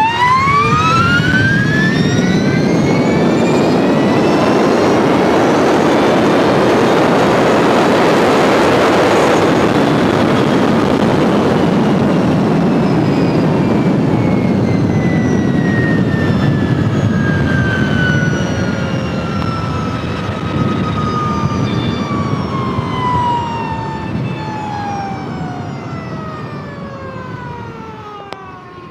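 2021 Energica Ego+ electric motorcycle's motor whine climbing steeply in pitch through a full-throttle quarter-mile drag launch, over heavy wind rush. About nine seconds in, the whine turns and falls steadily as the bike slows after the run, fading near the end.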